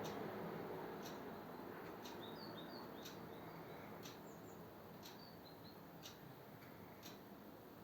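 Small birds chirping faintly in two short runs of high, quick chirps, over a steady tick about once a second.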